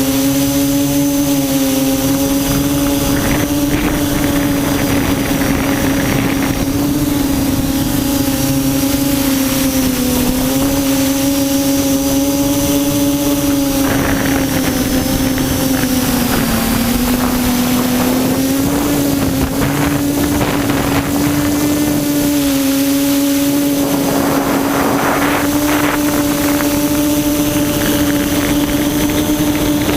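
QAV400 quadcopter's motors and propellers humming steadily in flight, the pitch wavering slightly and dipping now and then as the throttle changes, over a hiss of wind on the microphone.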